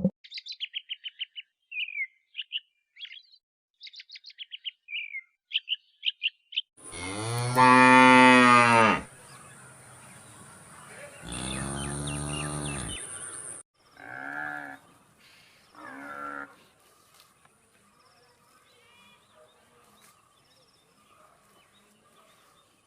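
Small birds chirping in quick short bursts, then a cow mooing: two long, loud moos followed by two shorter ones, with faint bird chirps behind.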